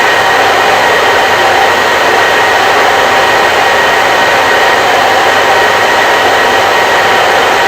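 Electric hair dryer running steadily: a loud, unchanging rush of blown air with a faint steady whine from its motor.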